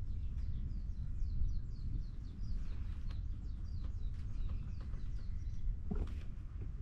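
A small bird chirping in a quick run of short, falling notes, about four a second, that stops after about three seconds, over a steady low rumble.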